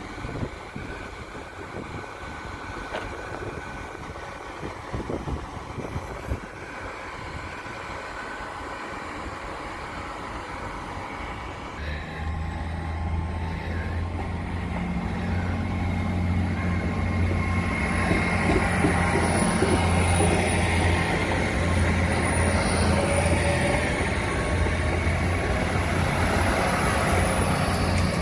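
TransPennine Express Class 802 bi-mode train running on its underfloor diesel engines as it comes alongside the platform: a steady low engine drone starts about twelve seconds in and grows louder over the next few seconds, with wheel-on-rail noise over it.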